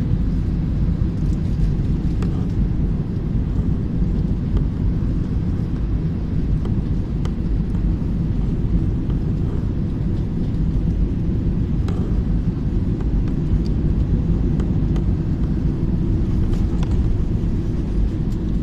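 Airliner cabin noise: a steady low rumble of the engines and airflow, with faint rattles now and then.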